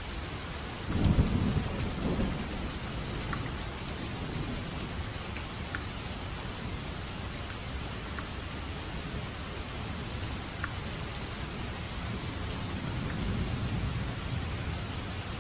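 Steady heavy rain on a roof. About a second in a thunderclap breaks in and rumbles away over a couple of seconds, and a fainter roll of thunder comes near the end.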